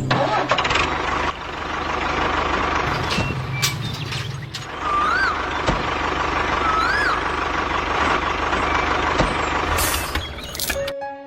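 Truck engine sound with a steady hiss, a few clicks, and two short rising-and-falling chirps about five and seven seconds in.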